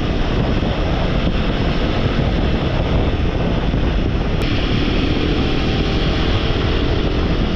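Wind rushing over the microphone with a Royal Enfield motorcycle running underneath while it is ridden along the road. About halfway through there is a click, and after it the rush turns hissier.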